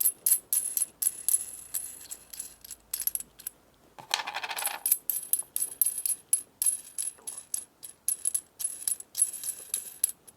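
Nuts being spun off the threaded end of an EMPI adjustable anodized aluminium pushrod tube: many quick, light metallic clicks and clinks, some ringing briefly.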